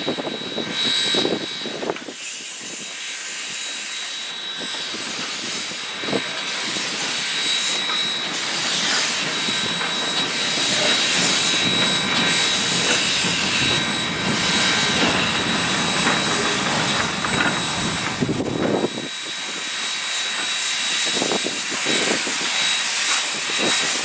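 Western Pacific 165, an Alco 0-6-0 steam locomotive, hissing steam: a loud, steady rushing hiss that builds over several seconds and thins out abruptly about nineteen seconds in.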